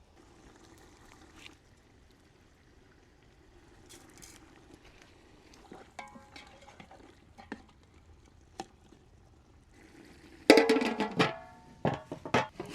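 A cooking spoon stirring and knocking against a pot: a loud run of clattering, ringing strikes starting about ten and a half seconds in, after a stretch of only faint sounds and a few scattered taps, with quiet background music underneath.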